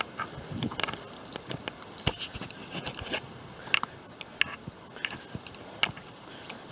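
Footsteps on a bush track: irregular crackling clicks and short scrapes, several strong ones about two, three and four seconds in.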